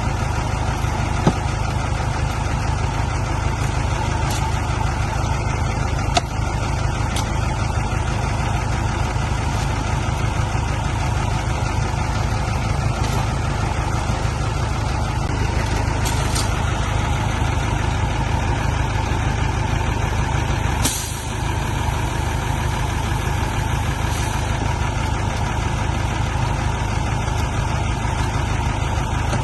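Heavy diesel truck engine running steadily with a deep rumble. A short burst of air-brake hiss comes about two-thirds of the way through, with a fainter one shortly before.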